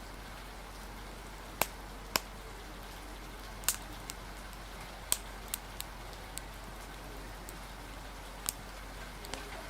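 Steady hiss of rain and wind with an open fire crackling over it: about nine sharp, irregular pops, the loudest a little over a second and a half in and near the middle.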